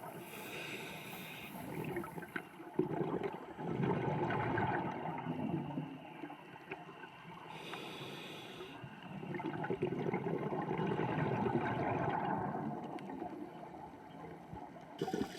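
A scuba diver's regulator heard underwater: two long bubbling exhalations about six seconds apart, with quieter stretches between them.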